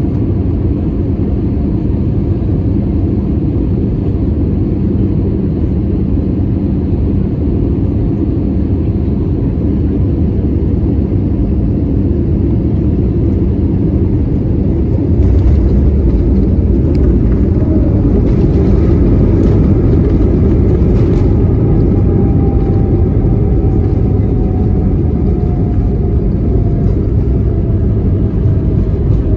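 Airbus A320 cabin noise: a steady, loud low rumble that grows louder about halfway through, with a whine sliding slowly down in pitch near the end.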